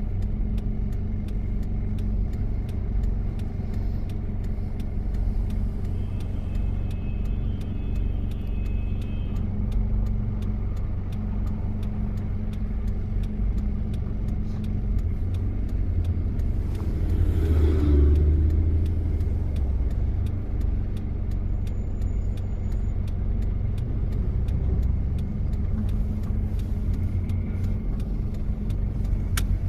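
1993 Toyota Prado diesel engine running steadily under way, with a low drone and road noise. About halfway through, a louder rush and rumble swells for a second or two, then fades.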